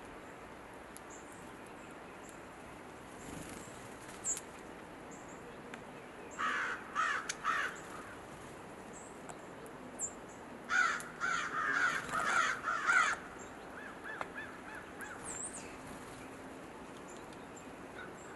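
A corvid giving harsh, repeated calls in two series: a short run about six seconds in and a longer run from about eleven to thirteen seconds. A few faint, short, high chip notes are scattered between them.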